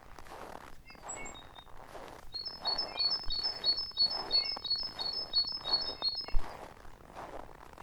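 A small songbird singing a rapid run of short, high, repeated two-note phrases for about four seconds, starting a couple of seconds in, with a few other scattered chirps. Underneath are regular soft crunching footsteps in snow, about one every two-thirds of a second.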